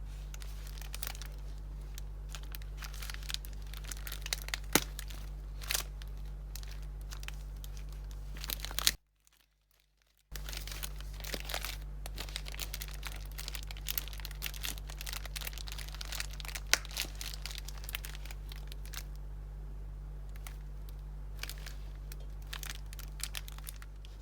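Hands handling crafting materials: irregular crinkling and rustling with small sharp clicks, over a steady low electrical hum. Everything drops out for about a second roughly nine seconds in.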